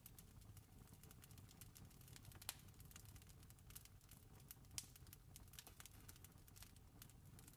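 Wood fire crackling with small irregular pops and snaps over a low steady rumble. Two louder pops come about two and a half seconds in and again near five seconds.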